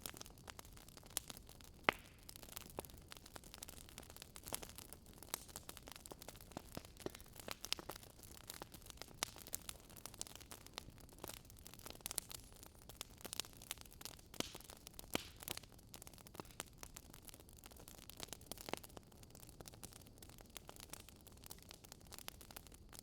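Campfire crackling: irregular sharp pops and snaps, several a second, over a soft steady hiss.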